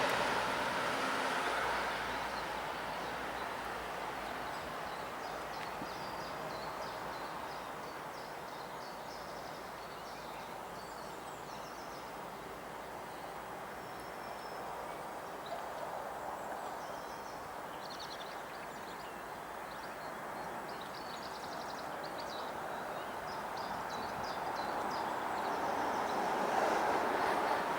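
Steady noise of a distant train, louder at first, easing off, then growing louder again over the last few seconds, with birds chirping faintly above it.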